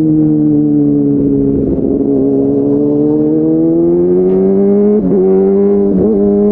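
Kawasaki ZX636R's inline-four engine running at warm-up idle through an SC Project slip-on exhaust. Its steady note sags slightly, then rises gradually over a few seconds, with a couple of brief wobbles near the end.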